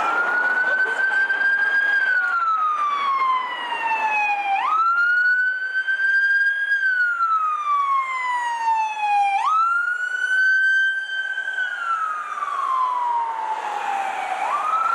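Emergency vehicle siren sounding a slow wail: each cycle jumps quickly up in pitch, holds briefly, then slides slowly down, about three full cycles, one every four to five seconds.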